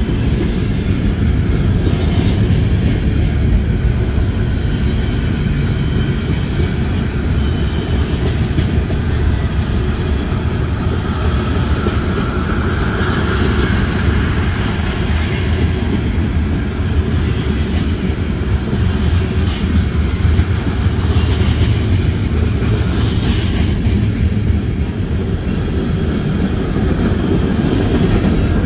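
Freight cars rolling past at close range: a steady heavy rumble of steel wheels on the rails, with a faint whine that rises and fades about halfway through.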